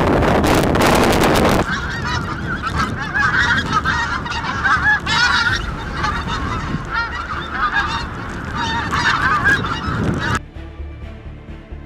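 A flock of pink-footed geese calling, many high yelping calls overlapping, after a second and a half of loud wind noise on the microphone. The calls cut off abruptly about ten seconds in, giving way to quieter music.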